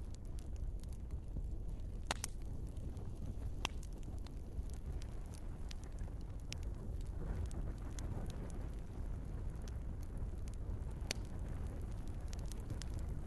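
Wood fire burning in a fireplace: a steady low rumble with scattered sharp crackles and pops from the logs, a few louder pops about two, four and eleven seconds in.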